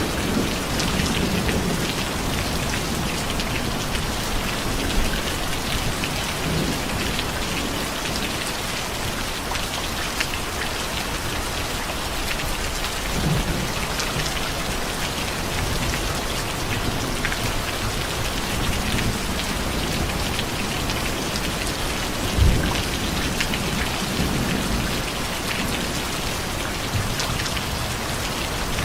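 Steady rain falling on surfaces, an even hiss, with low rumbles of thunder near the start and softer ones later. A single short thump stands out about three-quarters of the way through.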